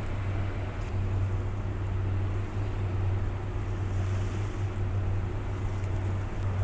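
Ship under way: a steady low engine drone, with the rush of water and wind over it.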